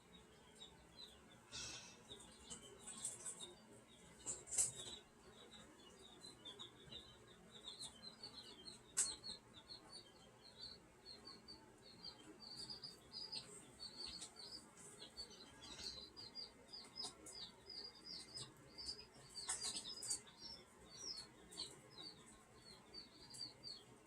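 Small birds chirping, many short high chirps in quick succession that grow thicker in the second half, with a few sharp knocks or clicks.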